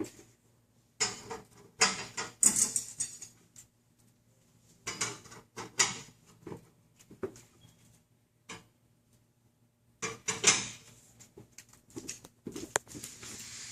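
Glass shelves being handled and set into a display showcase: several bouts of scraping with sharp clinks and knocks, with quiet gaps between them.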